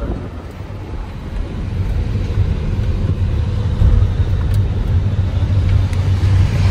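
Motor vehicle running with a low, steady rumble that grows louder over the first few seconds.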